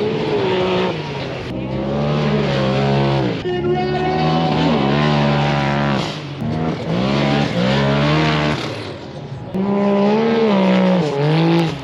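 UTV engine revving hard, its pitch climbing and falling in about five long pulls, dropping off briefly near the end before one last pull.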